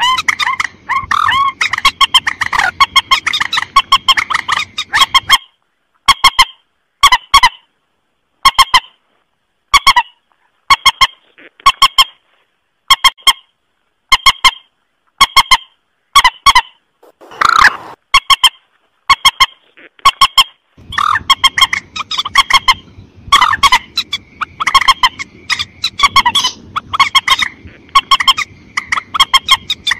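Recorded lure calls of a mandar, a rail-family marsh bird: short honking notes. They come in a dense run, then as single notes about a second apart with one longer drawn-out call midway, then in a dense run again.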